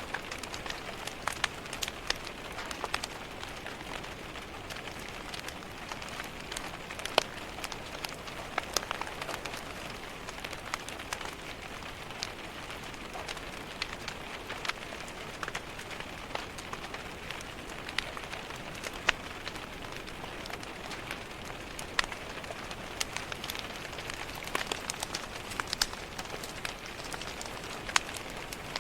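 Steady rain pattering on a window glass, together with a wood fire crackling, scattered sharp pops and ticks, a few of them much louder than the rest.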